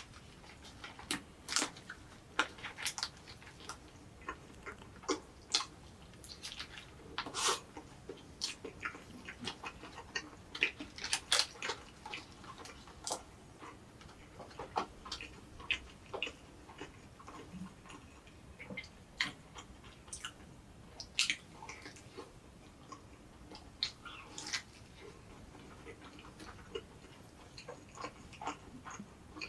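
Close-miked eating sounds from an Egg Drop egg sandwich toast: irregular chewing with sharp, sticky mouth clicks, busiest about a third of the way in.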